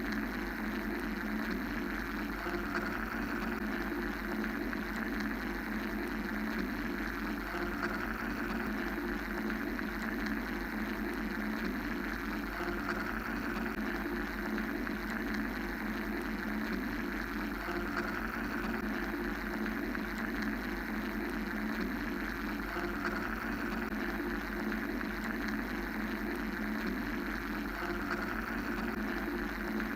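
Steady mechanical white-noise drone: a constant low hum beneath bands of rushing noise, unchanging throughout.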